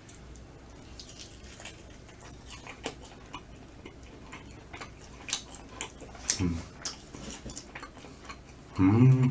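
Close-miked chewing of smoked chicken leg meat: small wet mouth clicks and smacks scattered irregularly, with a short hummed "mm" about six and a half seconds in.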